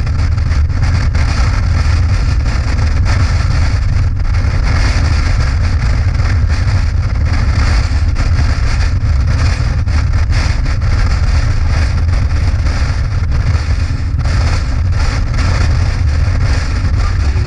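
Motorcycle cruising at a steady speed: a constant low engine drone with wind noise rushing over the microphone.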